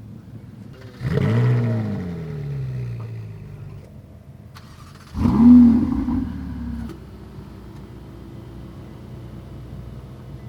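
A car engine idling and revved twice: a sharp rev about a second in whose pitch falls away over the next two seconds, then a shorter, louder rev about five seconds in, each dropping back to idle.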